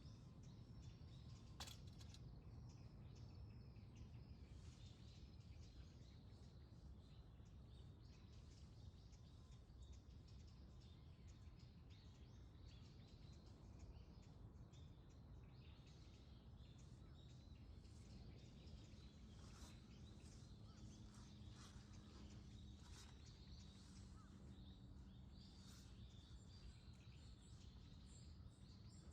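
Faint outdoor dawn ambience: small birds chirping sporadically over a low, steady rumble. A single sharp click sounds about a second and a half in.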